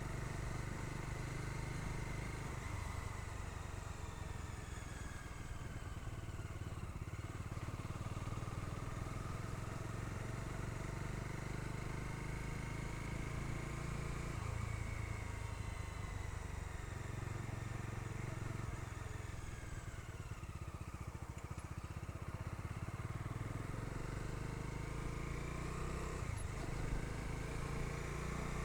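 Bajaj Dominar 250's single-cylinder engine running on the move, heard from the pillion seat, its pitch sliding up and down several times as the rider works the throttle over a steady low rumble.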